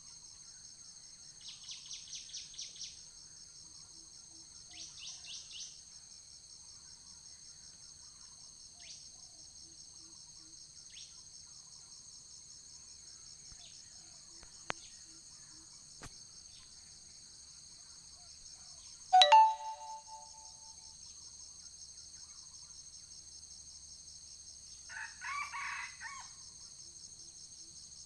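Steady, pulsing chorus of insects, with a few short high bird chirps early on. About two-thirds of the way in a single loud, short bird call rings out, and a rougher call follows near the end.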